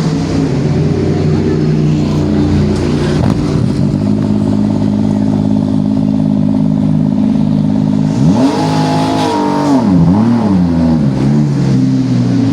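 Race car engine running at a steady idle, then revved about eight seconds in: the pitch rises and holds, dips and rises twice more, and settles back to a steady note.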